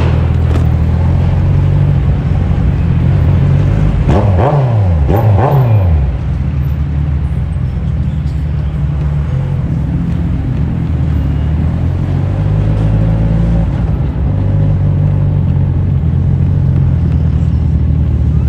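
Kawasaki Z1000 inline-four motorcycle engine running on the road. About four seconds in, its pitch falls steeply twice in quick succession, then it settles back to a steady run.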